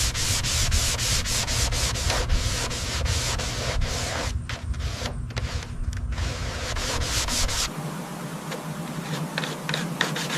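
Rapid, repeated sanding strokes rubbing across a surface. A low rumble beneath them drops away about three quarters of the way through, and the sanding carries on more lightly.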